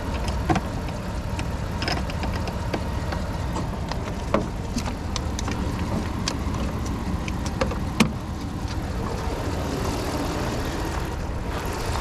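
A vehicle engine idling steadily while jumper cables are hooked up, with a few sharp metal clicks and knocks, the loudest about eight seconds in.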